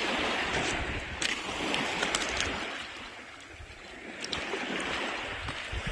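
Shallow seawater washing and sloshing at the shore, easing off about halfway through and then swelling again, with a few small clicks and knocks.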